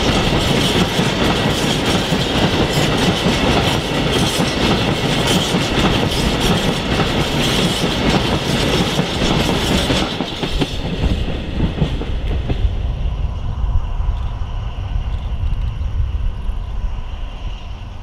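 Covered steel-coil freight wagons clattering over the rails as a long train rolls past. The clatter fades out about ten seconds in as the last wagons go by, leaving a low rumble.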